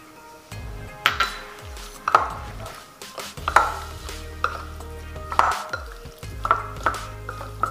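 Raw chicken wings being tossed and mixed with dry seasoning and baking powder in a bowl, making repeated short wet slaps and rustles about once a second, over background music.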